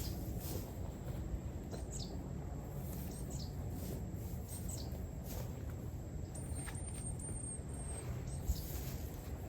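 Wild birds calling: scattered short, high chirps that fall in pitch, and a thin high song in the middle, over steady low outdoor background noise.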